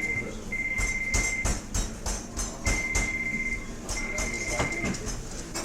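Restaurant ambience: cutlery and dishes clinking while a phone rings with a steady, single-pitched electronic tone, sounding in pairs of about one-second beeps, twice.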